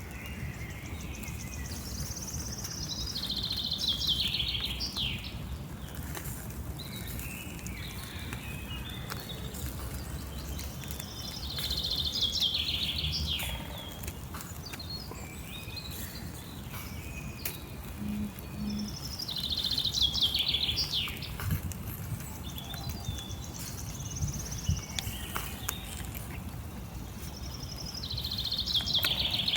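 A songbird repeats the same song about four times, roughly every eight seconds. Each song is a quick run of notes falling in pitch and lasts about two seconds. Steady outdoor background noise runs underneath.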